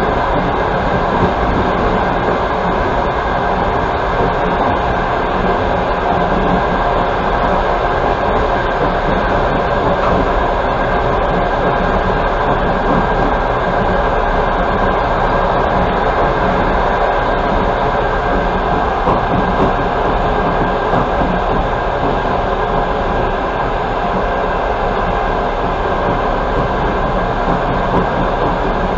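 Passenger train running on the rails, heard from inside the carriage: a steady, loud rumble of wheels and running gear.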